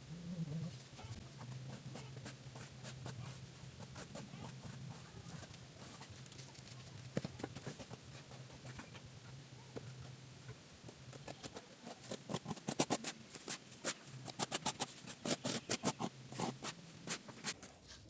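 Plastering tools scraping and tapping on cement plaster in quick short strokes, sparse at first and coming faster and louder in the second half.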